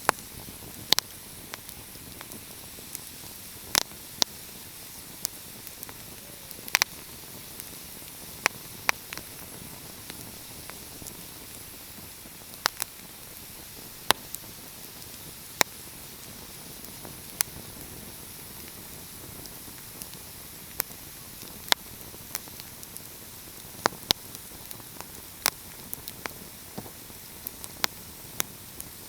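Wood fire crackling: sharp pops and snaps at irregular intervals, from less than a second to a couple of seconds apart, over a steady soft hiss.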